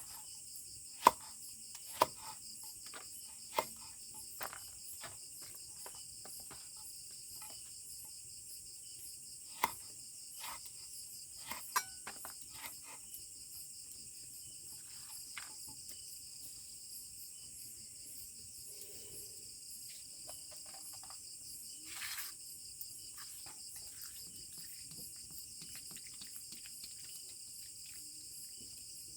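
Steady chorus of insects, with sharp clicks and knocks scattered through the first half; the loudest comes about a second in. A brief rustling burst comes about two-thirds of the way through.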